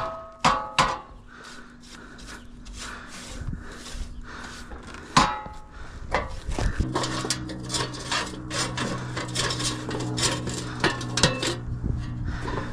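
Repeated short scratchy brush strokes, with a few sharp metallic clanks that ring briefly, near the start and again about five seconds in. A steady low motor hum starts about seven seconds in and keeps on.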